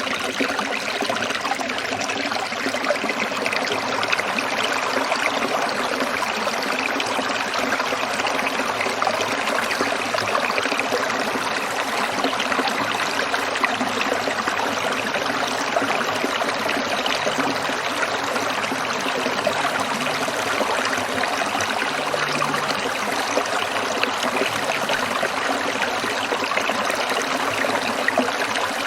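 Small stream trickling and babbling over stones: a steady, unbroken rush of running water with fine splashing texture.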